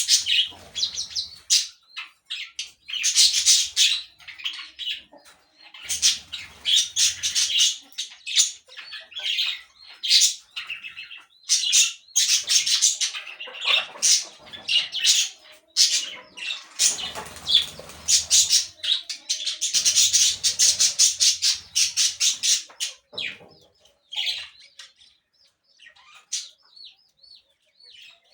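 Parakeets chattering and squawking in harsh, rapid bursts with short pauses between them, the calls growing sparser over the last few seconds.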